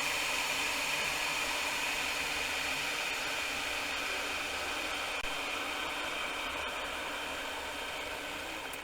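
Electric kettle boiling water: a steady rushing hiss of boiling water and steam that grows slowly quieter.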